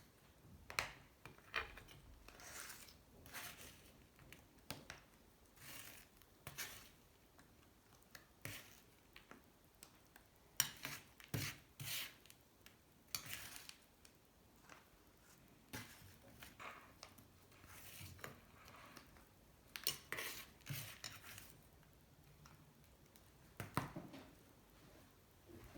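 A metal spoon scraping and clinking in irregular strokes against an aluminium motorcycle engine case as caked sludge of oil, sand and corrosion is dug out, with one sharp click about ten seconds in.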